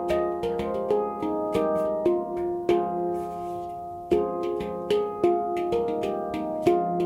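F minor handpan by Oasis Sound Sculpture played by hand: a run of struck notes, about two a second, each ringing on. About three seconds in the strikes pause while the notes ring, then resume.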